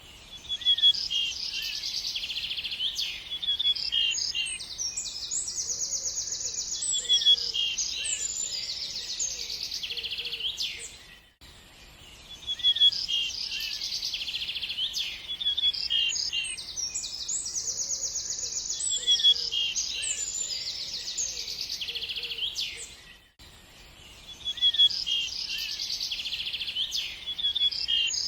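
Several songbirds chirping and trilling quickly, a short recording played on a loop that repeats about every twelve seconds, dropping briefly almost to silence between repeats.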